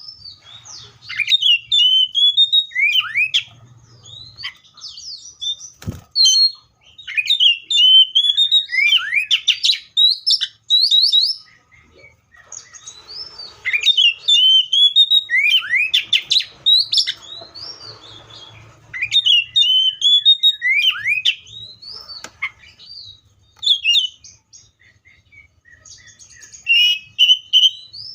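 Seychelles magpie-robin singing: phrases of clear whistles and sweeping slurred notes mixed with quick rattling runs, repeated with short pauses between them. A single sharp knock about six seconds in.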